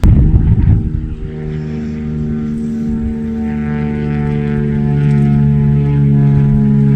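A motor drone with a steady pitch, rising slowly in level, after a sudden burst of wind-like noise in the first second.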